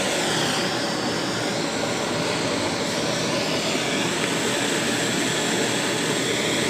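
Steady rushing roar of a heating tool played over a submersible pump motor's metal casing, heating it so the casing expands to free the stator.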